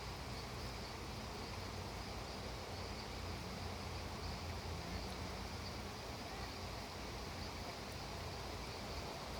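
Steady rainfall, an even continuous hiss, with a faint high insect trill running over it.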